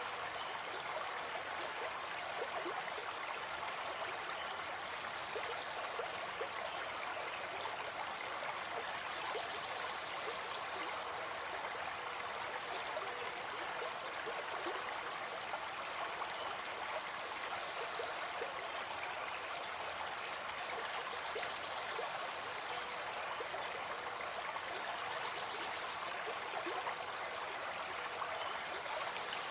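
A forest stream flowing steadily, with water running and gurgling over rocks.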